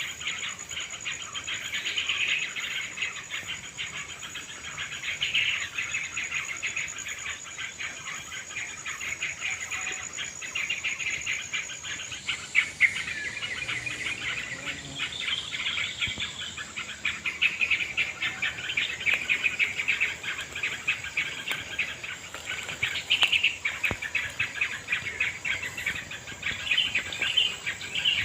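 Yellow-vented bulbuls (trocokan) chattering and calling noisily in a tree, a dense, busy run of bubbly notes. A steady high insect drone sounds behind them until about twelve seconds in.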